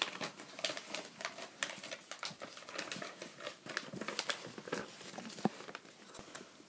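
Irregular soft clicks and rustles, in a small room.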